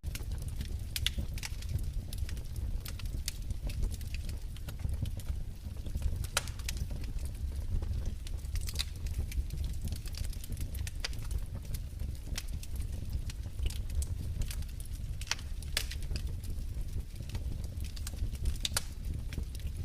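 Fire in a fireplace crackling, with irregular sharp snaps and pops over a steady low rumble.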